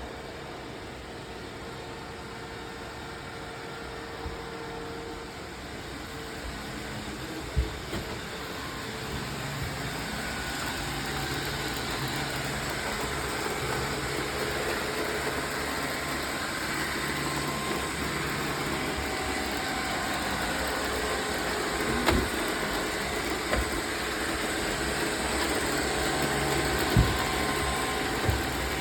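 Roomba robot vacuums running, a steady motor and brush whir that grows slowly louder, with a few sharp knocks.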